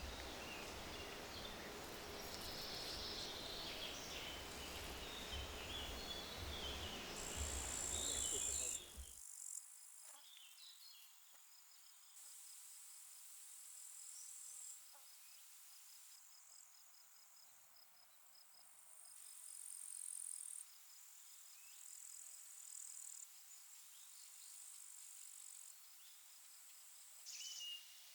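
Summer meadow and wetland ambience dominated by insects such as grasshoppers or crickets, chirring and trilling in rapid pulses. For the first nine seconds or so wind buffets the microphone and small bird chirps come through. After that the insect sound stands alone, shifting abruptly several times.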